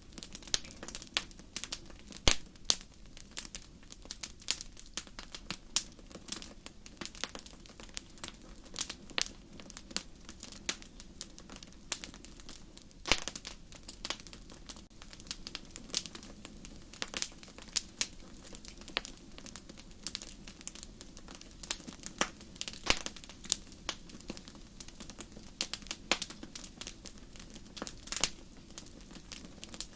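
Fireplace fire crackling: frequent irregular sharp pops and snaps over a low steady rush of flame, with a few louder pops scattered through.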